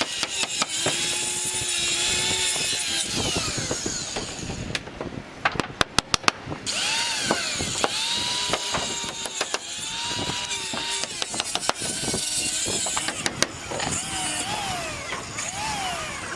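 Handheld power tool working on wooden roof boards, its motor rising and falling in pitch in short runs of a second or two. Near the middle there is a quick run of about half a dozen sharp knocks.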